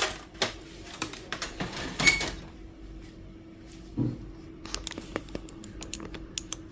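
Light plastic clicks and knocks from parts of a Brother DCP-T310 printer being handled during disassembly, with a short rattle about two seconds in, a duller thump about four seconds in, then a quick run of small clicks.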